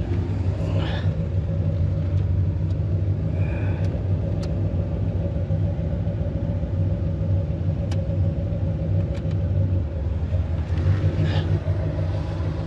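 1986 Chevrolet Corvette C4's V8 engine idling steadily, with a few faint clicks over it.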